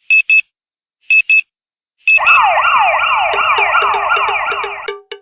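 Two short double electronic beeps about a second apart, then an electronic yelp siren with fast, repeated rising sweeps sets in about two seconds in, with a quick ticking beat joining it. The siren cuts off near the end, leaving a rhythmic cowbell-like beat.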